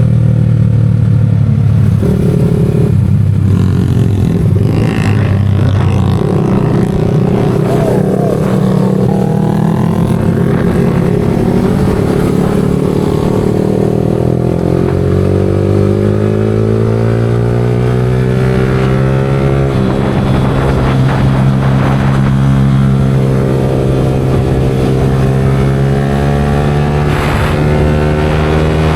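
Yamaha R15 V4M's single-cylinder engine running through an aftermarket Leo Vince exhaust while riding, its pitch stepping with gear changes and rising and falling with the revs, with a drop about twenty seconds in.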